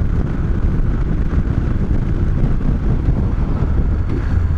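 Moto Guzzi V-twin motorcycle engine running at road speed, under heavy wind rush on the rider's helmet microphone. A steady low engine note comes up near the end.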